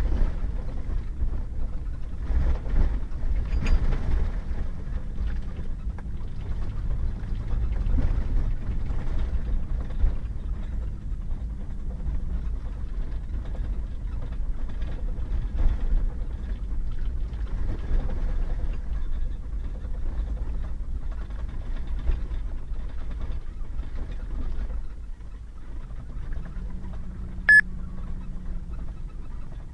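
Pickup truck driving on a wet, muddy gravel road: steady engine and tyre rumble with scattered knocks from bumps. A single short electronic beep sounds near the end.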